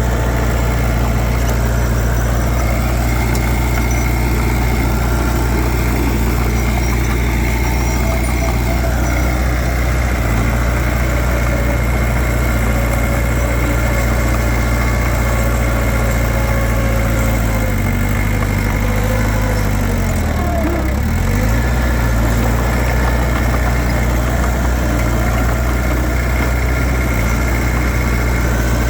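Heavy diesel engine of an earthmoving machine running steadily. About eighteen seconds in its pitch sags for a few seconds, then comes back up.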